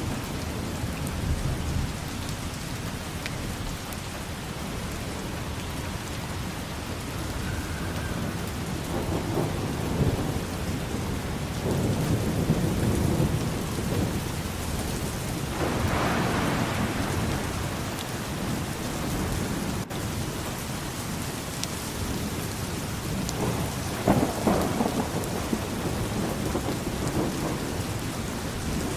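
Steady rain falling, with thunder rumbling through it in long low rolls that swell around the middle and again near the end.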